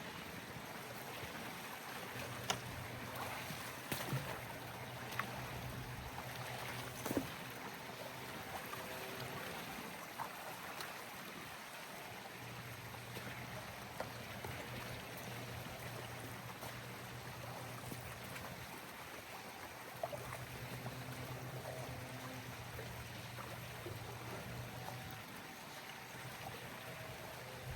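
Water moving and trickling steadily, with a low hum that comes and goes three times and a few sharp clicks and knocks.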